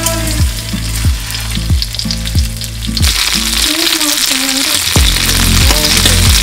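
Sauce-glazed pork skin sizzling in a small rectangular frying pan; the sizzle grows louder about three seconds in. A bass-led background music track plays underneath, dropping out briefly in the middle.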